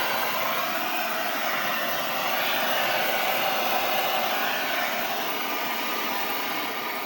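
Brazing torch flame hissing steadily as a copper fitting on a thermostatic expansion valve is brazed.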